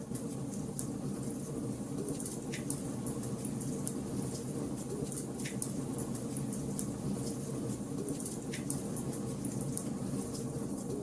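Wood fire crackling in a fireplace: a steady low rush of burning logs with frequent small crackles and three louder pops, about three seconds apart.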